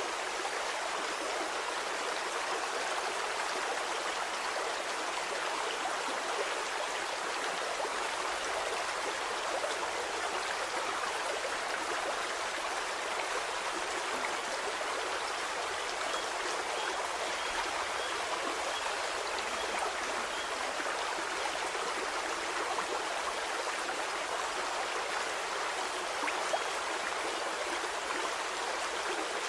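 Stream water flowing steadily, a continuous even babble with no breaks.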